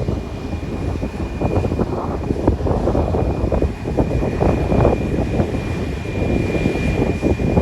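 Airliner engines running: a continuous rumble that swells and eases unevenly, with a faint steady high whine held throughout.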